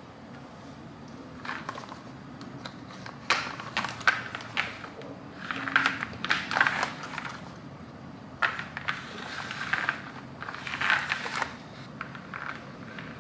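Irregular clattering and clicking of small hard toy parts, in short bursts every second or two over a steady low hum.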